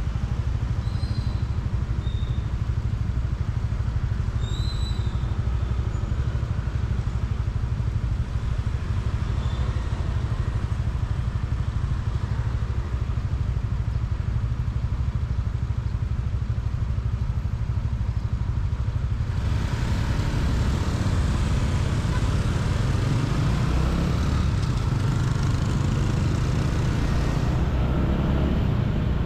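Motorcycle riding through city traffic, heard from a GoPro on the bike: a steady low rumble of engine and wind buffeting the microphone. A few short high chirps come in the first few seconds. From about two-thirds of the way through, a louder hiss of road and traffic noise joins in.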